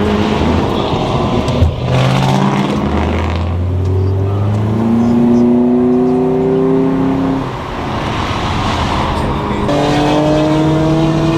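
Car engine accelerating hard, its pitch rising steadily through a gear, dropping at an upshift a little after the middle, then climbing again near the end.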